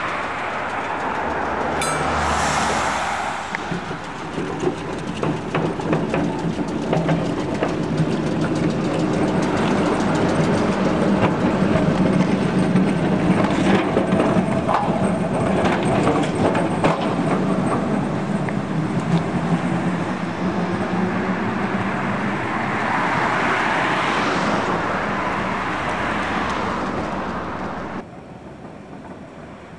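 Vintage electric tram running along street rails: a steady hum with wheels clicking over the track. About two seconds before the end it cuts suddenly to much quieter background.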